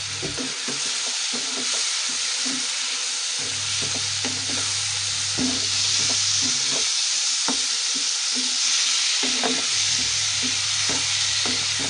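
Tomato-onion masala sizzling in hot oil in a nonstick kadhai, stirred with a wooden spatula whose strokes scrape and tap against the pan again and again over a steady hiss.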